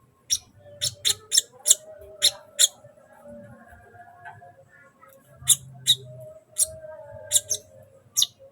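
Sunbird (kolibri) giving sharp, high chip calls in quick series, about three a second. There are two runs with a pause of a couple of seconds between them.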